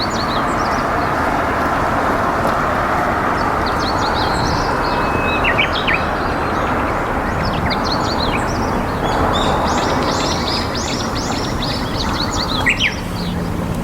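Steady rush of flowing river water, with small birds chirping over it in many short calls, most densely in a quick run about two-thirds of the way through.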